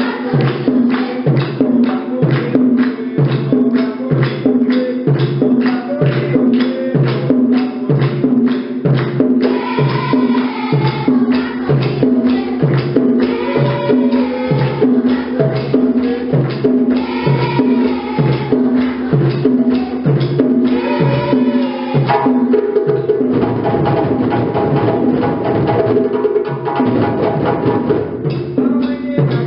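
Djembe drum ensemble playing a steady repeating rhythm, with evenly spaced strokes. About 22 seconds in, the playing turns denser and busier.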